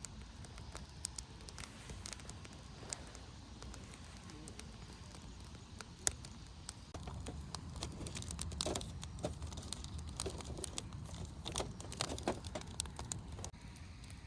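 Firewood burning in a campfire, crackling with scattered sharp pops at irregular intervals.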